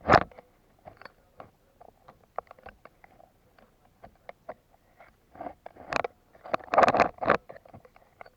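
Irregular clicks, knocks and rustling close to the microphone, with one loud knock right at the start and a dense cluster about six to seven and a half seconds in.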